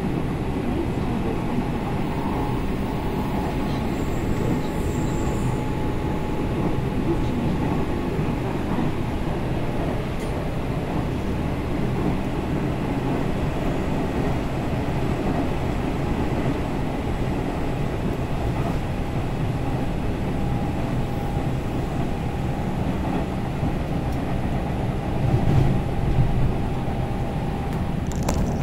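Hanshin Railway electric train car running at speed, heard from inside the passenger cabin: a steady rumbling run noise with a faint steady whine over it, briefly louder near the end.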